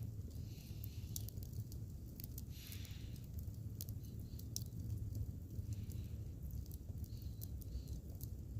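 Wood fire crackling, with irregular sharp pops and snaps and a few soft hisses over a steady low rumble.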